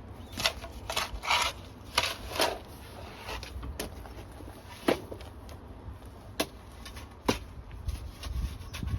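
Shovel scraping and shovelling backfill into a trench: a run of rough scraping strokes in the first couple of seconds, then a few sharp separate clicks or knocks.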